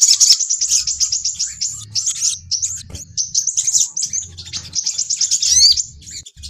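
Sunbirds' high-pitched lure song: a dense run of rapid, sharp chirping notes in quick trills, with a few quick rising whistles about five and a half seconds in.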